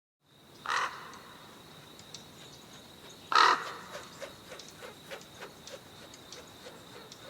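Two loud bird calls, the first about two-thirds of a second in and the second about three seconds later, over a faint background with a steady high thin tone and scattered small ticks.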